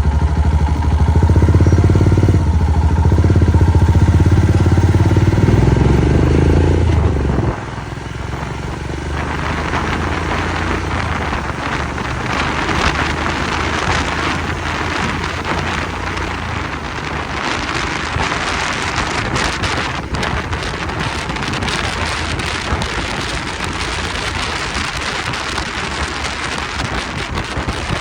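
A motorcycle engine runs loudly for about seven and a half seconds and then drops out abruptly. What remains is a steady rushing hiss of wind and road noise.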